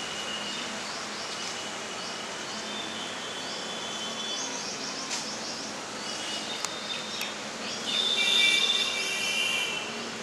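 Birds chirping outdoors: a short high chirp repeated about twice a second over a steady background hiss, with a louder burst of several whistled notes about eight seconds in.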